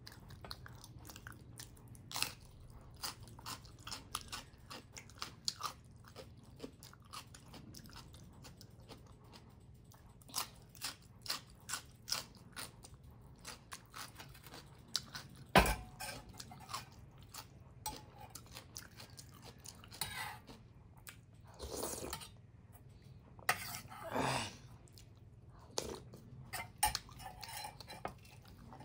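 Close-miked chewing and crunching of a person eating millet dhindo and greens by hand, with short bites and mouth sounds scattered throughout and one sharp knock about halfway through.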